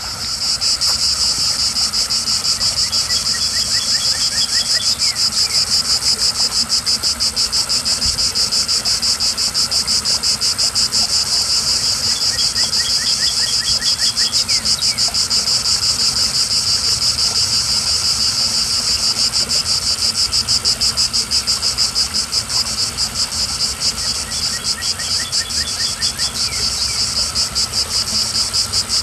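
Loud chorus of periodical cicadas, a dense droning buzz that pulses rapidly and holds steady throughout.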